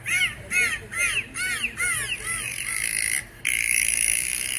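A bird cawing over and over, about two arched calls a second, growing fainter. After a short break a little past three seconds, a steady high-pitched sound takes over.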